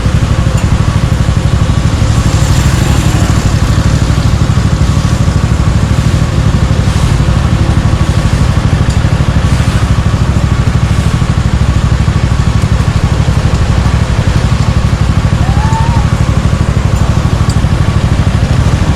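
Suzuki Gixxer 155's single-cylinder four-stroke engine running steadily through its exhaust, with no revving.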